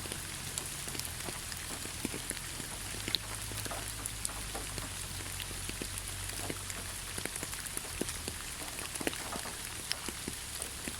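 Rain falling in a forest: a steady hiss with many separate drops pattering and dripping close by on leaves and surfaces.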